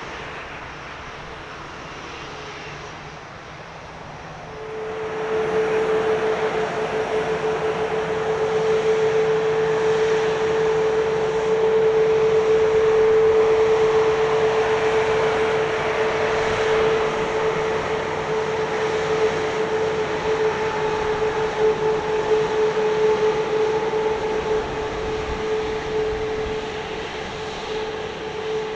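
Boeing 787-9 airliner's jet engines during its landing. About four seconds in, the sound swells quickly into a loud, steady rush with a held whine. It stays loud for about fifteen seconds, then slowly eases off.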